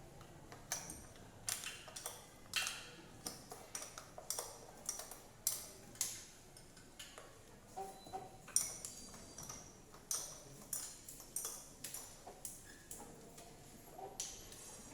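Irregular metallic clicks and clinks of hand tools and engine parts being handled, some with a short high ringing ping.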